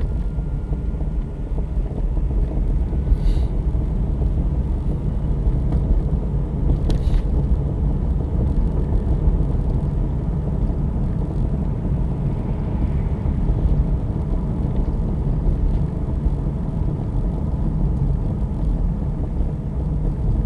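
Opel Astra J driving, with a steady low road-and-tyre rumble and two brief knocks, about three and seven seconds in. The knocks are the kind of suspension knocking the owner is chasing.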